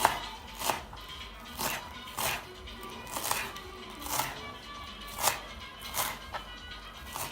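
Knife chopping fresh coriander leaves on a cutting board, about a dozen uneven strokes roughly every half second.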